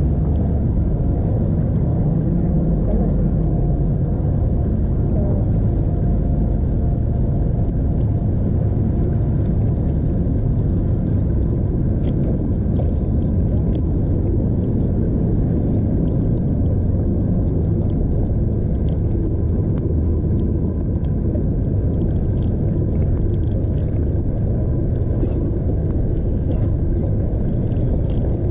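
Steady low rumble of wind and road noise on a chest-mounted GoPro while cycling, with faint voices in the background.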